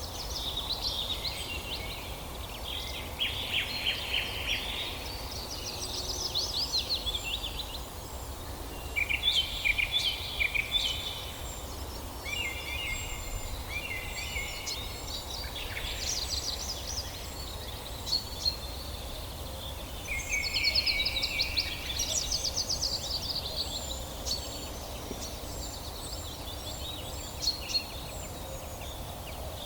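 Several songbirds singing over one another, with repeated phrases of fast trills and warbles and thin high notes throughout, over a steady low rumble.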